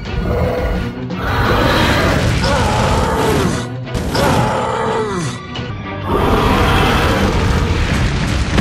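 Background music under three long blasts of rushing noise with falling pitch sweeps: a cartoon fire-breath sound effect.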